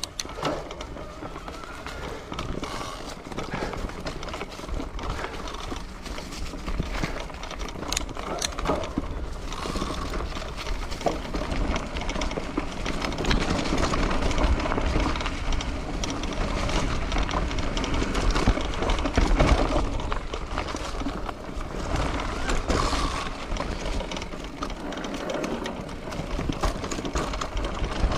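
Wind buffeting the microphone and rolling road noise from a moving bicycle. A continuous low rumble rises and falls, with no steady rhythm.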